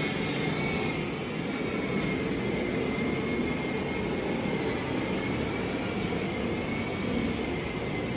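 Steady mechanical running noise with a thin high whine that wavers slightly in pitch.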